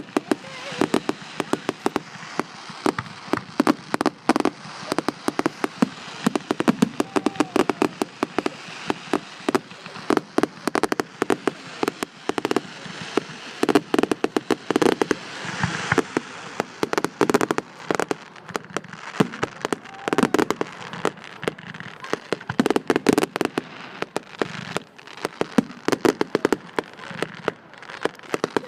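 Firework display: a continuous rapid barrage of bangs and crackles, several a second.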